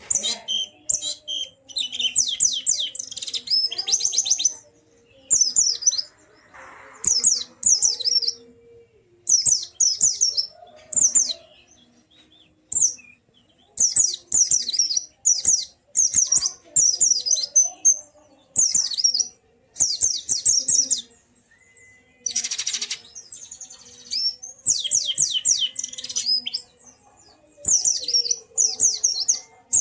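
White-eye (pleci) singing in full song: strings of rapid, high chirping phrases, each a second or two long, with short pauses between them.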